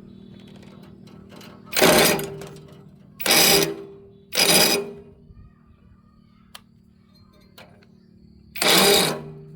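A machine running with a steady low hum, broken by four short, loud bursts of harsh noise, each about half a second long.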